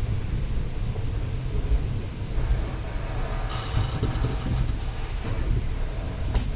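Passenger express train running along the track, heard from an open coach doorway: a steady low rumble of the coaches and wheels on the rails. A brief burst of rattling noise comes about three and a half seconds in.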